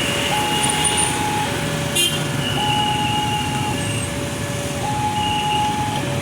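Railway level-crossing warning alarm sounding its alternating two-tone signal, a higher and a lower note of about a second each, over a steady rumble of passing traffic. A sharp click about two seconds in.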